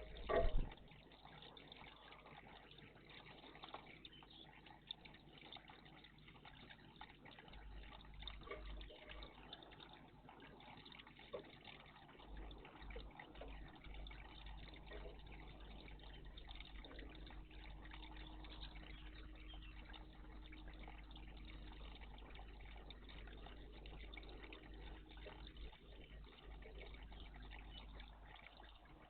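Water trickling and splashing in a garden bird bath, steady throughout, with a short louder burst about half a second in.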